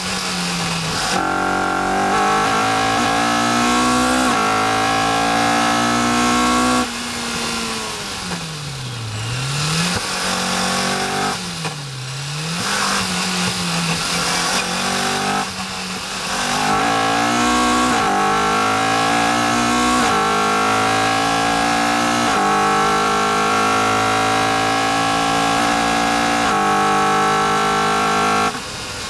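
Caterham R400's four-cylinder engine heard onboard on track: it revs up through the gears in steps, lifts off and falls and rises in pitch twice while slowing for a corner, then pulls hard up through several upshifts before cutting back sharply near the end as the driver lifts off.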